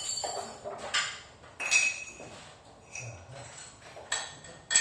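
Small pieces of ceramic tile clinking and knocking together as they are handled and stacked under a door for blocking: about four sharp clinks with a short ring.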